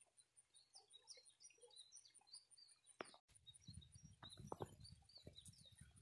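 Faint, rapid chirping of small birds: many short, high, downward-sliding chirps. A faint, high, even ticking runs underneath. About halfway through, the sound cuts out for a moment, and then irregular low rumbling noises join the chirps.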